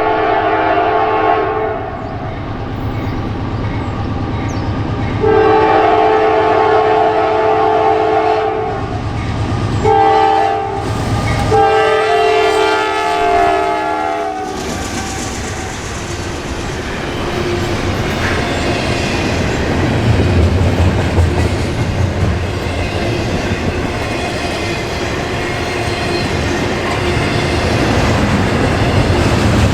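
Norfolk Southern GE AC44C6M diesel locomotive sounding its air horn: the end of one blast, then a long, a short and a long blast, the pattern of the grade-crossing signal. Then the locomotive and the intermodal container train roll past, engine rumbling and wheels clattering over the rail joints.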